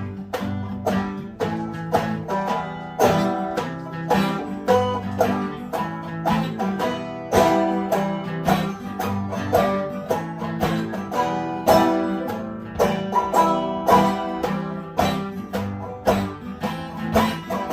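Banjo-led folk band playing the instrumental introduction to a song, a fast, even run of plucked notes over a steady low accompaniment.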